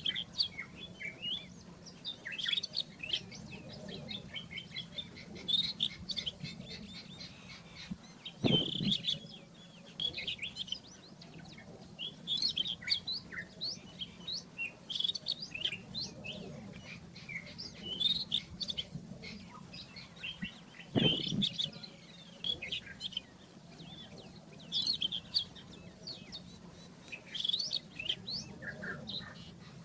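Rufous-tailed scrub robin singing: repeated short phrases of varied high chirps and whistles, over a faint steady low hum. Twice a brief sound reaches much lower, about eight and twenty-one seconds in.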